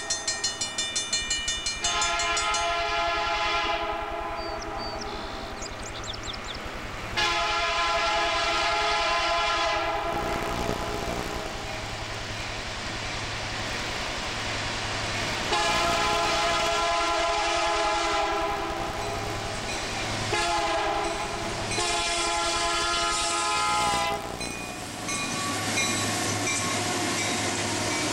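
CSX freight locomotive's air horn sounding a series of blasts, mostly long with one short one, over the steady rumble of a long freight train rolling past.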